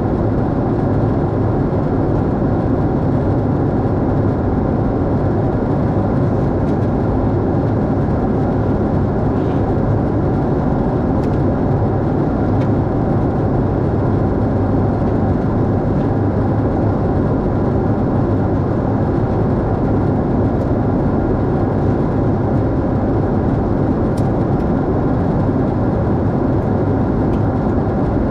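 Steady, loud noise of a Lufthansa Boeing 747-8 airliner in operation, a constant deep hum and rush that does not change, with a few faint clicks.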